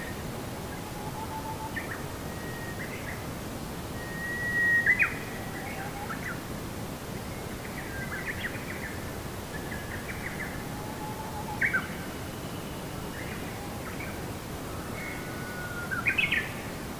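Several birds chirping and whistling in short, scattered calls, with a few louder bursts of chirps, over steady background noise.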